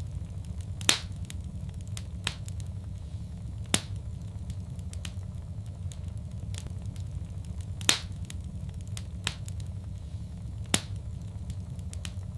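Fireplace fire crackling: sharp pops every second or so, the loudest about a second in, near four seconds, near eight and near eleven, over a steady low rumble of the flames.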